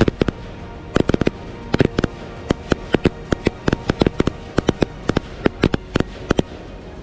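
Fireworks going off: sharp bangs and crackles in quick, irregular succession, several a second, with music underneath.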